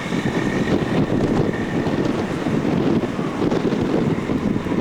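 Wind buffeting the camera's microphone, a steady, rumbling flutter.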